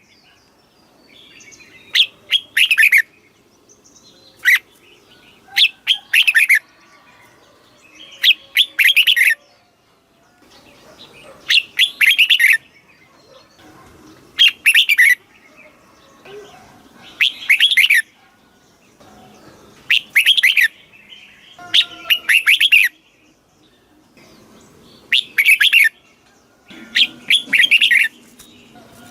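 Red-whiskered bulbul singing: short, bright whistled phrases of quick rising and falling notes, repeated about every two to three seconds, with faint chatter between.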